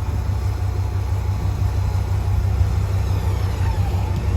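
Vehicle engine running steadily with a deep, even low rumble.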